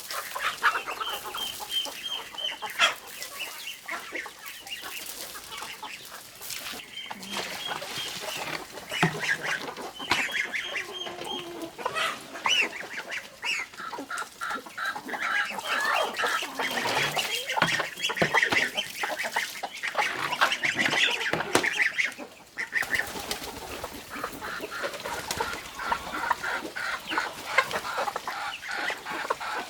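Chickens clucking, many short calls overlapping from a flock.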